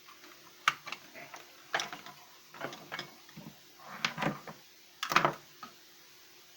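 A series of irregular sharp clicks and short clattering knocks, the sound of the repaired heat gun and its parts being handled and set down; the heat gun's motor is not running.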